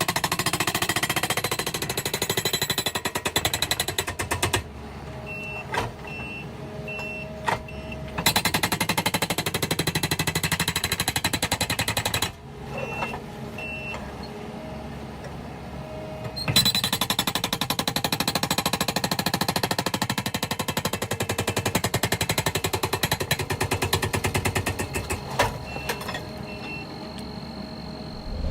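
Skid-steer-mounted hydraulic breaker hammering in rapid blows, in three runs of several seconds each. Between the runs are quieter stretches where the machine keeps running and short high beeps sound.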